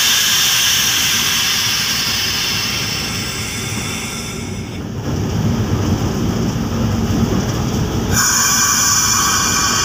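Diesel locomotive running along the track, heard from the cab, with a steady low rumble. A high-pitched wheel squeal fades away by about halfway through and starts again near the end.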